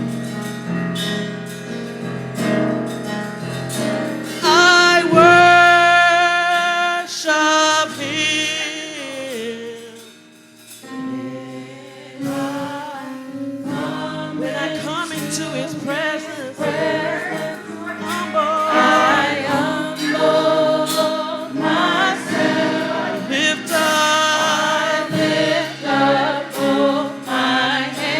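Church choir singing a gospel worship song with instrumental accompaniment. It sings sustained notes, drops away briefly near the middle, then comes back in.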